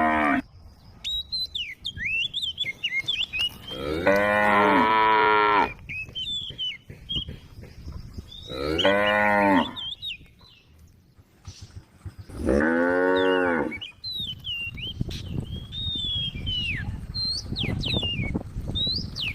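Cows mooing: three long, drawn-out moos a few seconds apart, each bending in pitch, with the tail of another at the very start. Thin, high chirping runs in the gaps between the moos.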